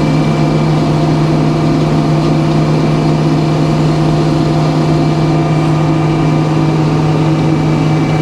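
Sawmill's engine running steadily at constant speed: a loud, even drone with a strong low hum that does not change.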